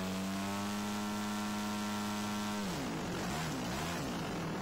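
RC model airplane engine running at a steady high pitch, then about two-thirds of the way through the pitch drops and wavers up and down.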